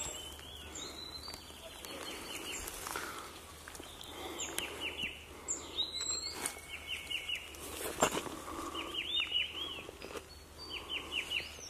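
Wild birds singing and calling: runs of four or five short, high chirps in quick succession, repeated several times, among other scattered whistled notes. A couple of brief knocks come about six and eight seconds in.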